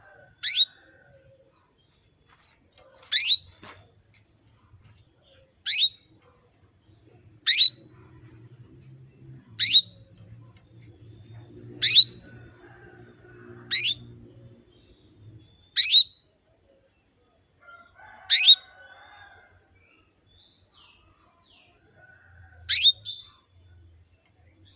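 Female canary in breeding condition calling to a male: a single sharp chirp that drops steeply in pitch, repeated about every two seconds, with soft runs of quick pips between some calls.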